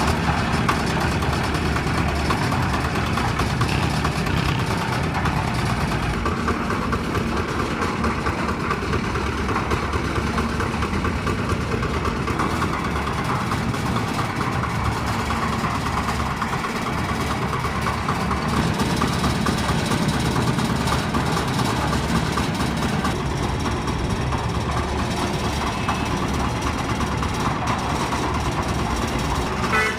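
Diesel engine of a concrete mixer machine running steadily at an even speed.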